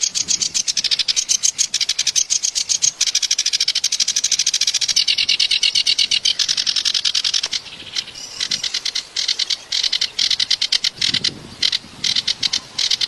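Kerak basi songbird singing a harsh, rapid chattering song: fast strings of repeated high notes many times a second, broken by a few short pauses about two-thirds of the way through.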